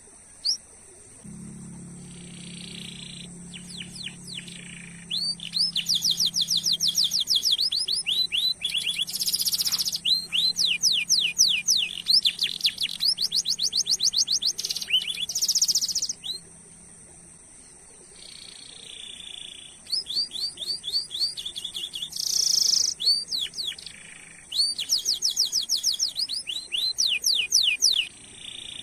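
Canary singing long, fast trills of rapidly repeated rising chirps in several bursts, with short pauses between phrases. A steady high-pitched tone runs underneath.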